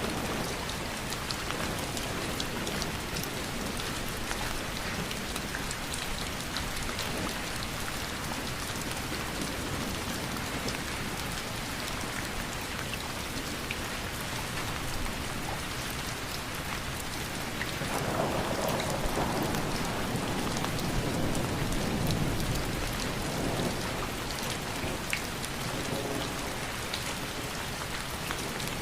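Steady heavy rain falling, with fine pattering drops. About two-thirds of the way through, a low rumble of thunder swells for several seconds and then fades.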